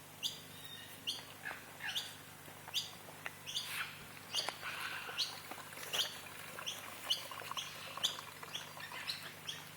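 Wild birds chirping: a run of short, sharp calls that each drop in pitch, coming about once or twice a second, from several birds at once through the middle.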